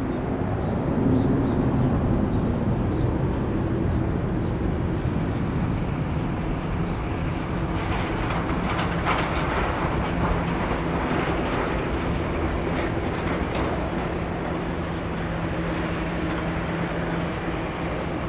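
Boeing 787-8 airliner's jet engines running steadily while it taxis, two steady tones over a low rumble, with wind rumbling on the microphone.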